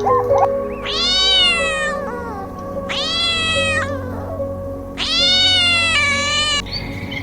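An animal gives three drawn-out, high cries of about a second each, over faint background music.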